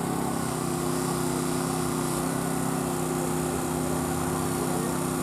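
A small engine running steadily at an even pitch, the kind that drives a rescue crew's hydraulic cutting tools.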